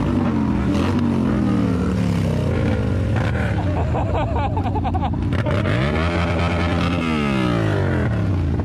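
Motorcycle engine running, its pitch falling as it slows through the first few seconds, then revving up sharply about six seconds in and winding down again near the end.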